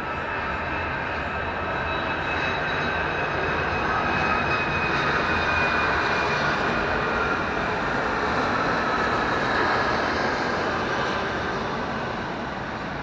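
A large passing vehicle, a steady rush with a high whine, that grows louder toward the middle and then fades.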